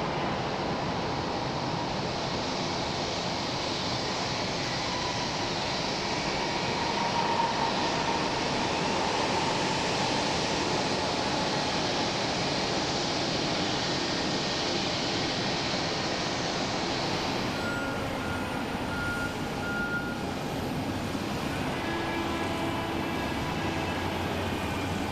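Steady jet engine noise from a Boeing 757-200F freighter on the ground after landing. About 17 seconds in, the higher hiss drops away sharply, and a faint short beeping tone follows.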